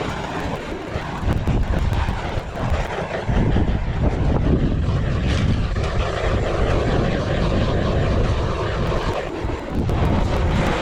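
Strong gusting wind rumbling over the microphone, a loud rushing noise that swells and eases throughout.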